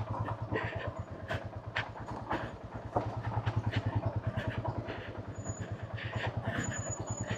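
Motorcycle engine running at low revs with an even pulsing beat, with scattered knocks and clatter of loose stones under the tyres as it creeps down a steep rocky track.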